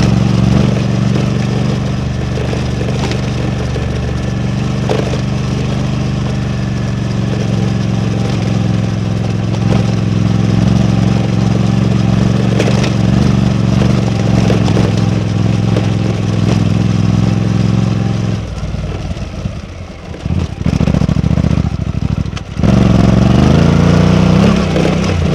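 Suzuki V-Strom 800DE parallel-twin engine heard while riding, holding a steady note under throttle. About 18 seconds in the throttle closes and the sound falls away and breaks up. About 23 seconds in it returns loud, rising in pitch as the bike accelerates again.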